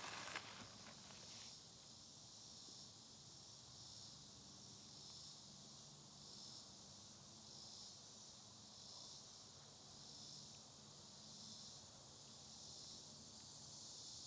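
Faint chorus of insects in summer woods: a shrill high buzz that swells and fades about once a second. A few soft rustles or clicks come in the first second and a half.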